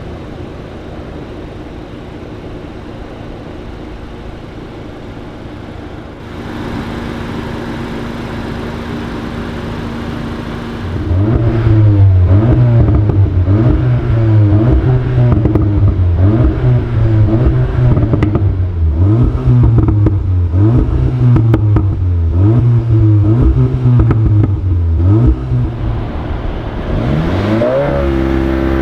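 The ABT-tuned CUPRA Ateca's turbocharged 2.0-litre four-cylinder engine during a launch-control run: it runs steadily at first, rises in level about six seconds in, then from about eleven seconds goes to full-throttle acceleration, much louder, with repeated rises and drops in pitch, before settling to a steadier, lower note near the end.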